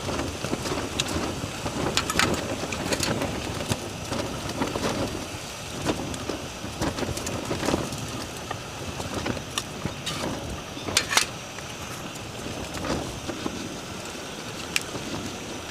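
Steady rain falling, with irregular sharp clicks and knocks over it, the loudest about two seconds in and about eleven seconds in.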